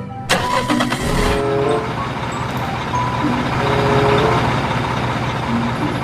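A vehicle engine sound that starts abruptly with a clattering burst about a third of a second in, then runs steadily, with background music playing short notes over it.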